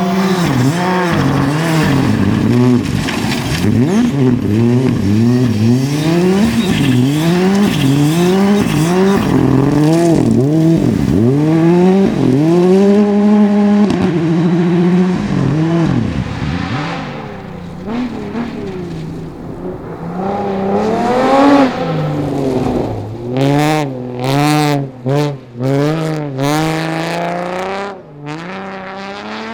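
Rally car engine revving hard, the pitch climbing and dropping again and again through quick gear changes. It eases off for a few seconds around the middle, then comes back as a string of short, sharp rev rises and falls on and off the throttle near the end.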